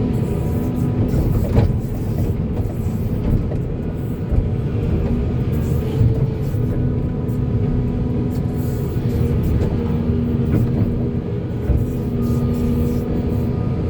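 Diesel engine of a Volvo excavator running steadily at working speed, with a couple of faint knocks.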